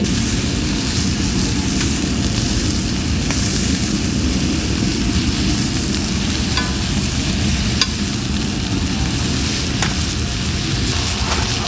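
Beef loin steak sizzling as it sears over a wood fire, a steady frying hiss with a few faint crackles.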